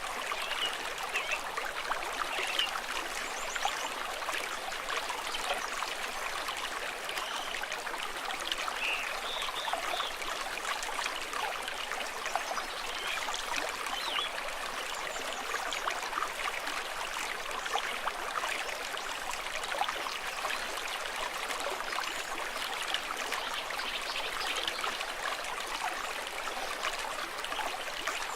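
A stream of running water, trickling and babbling steadily.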